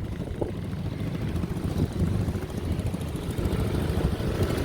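Steady low rumble of a running vehicle, without clear changes in pitch.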